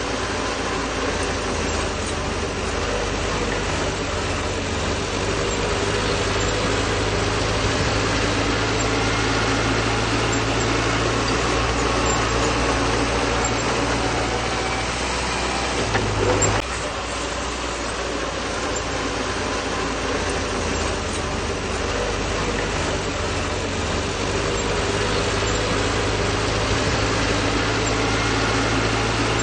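Bulldozer's diesel engine running steadily under work, with a brief surge and a change in engine note about halfway through.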